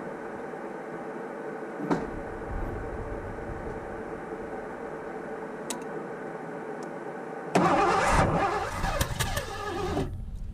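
The V8 engine of a 1984 Ford LTD Crown Victoria turning over with a steady mechanical drone, a click about two seconds in, then a much louder, rougher burst for about two and a half seconds near the end before it drops off.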